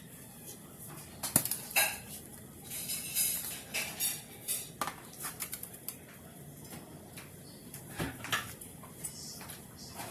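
Kitchen dishes and utensils clinking and clattering in irregular knocks and clinks, some louder than others.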